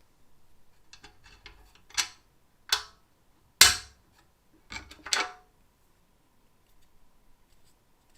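Small metal parts being handled in a workshop: a quick run of light clicks, then several sharp knocks and clacks, the loudest about three and a half seconds in, and faint ticking near the end.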